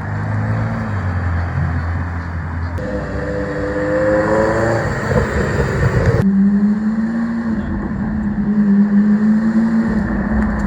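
Car engines: first a low steady idle, then an engine revving up with a rising pitch, then a sudden change to an engine holding a steady, higher note.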